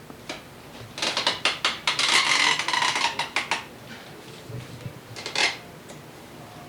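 Clattering and scraping of hard, likely metal objects: a run of quick clicks about a second in turns into a dense rattling scrape, then one short scrape about five seconds in.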